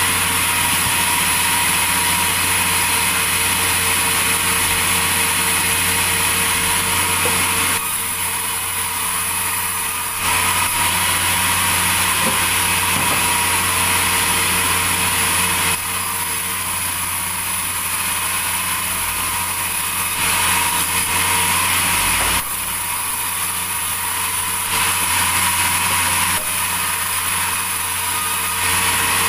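Sawmill saw and its motor running steadily, with a high whine over a low hum. The level drops slightly and comes back several times.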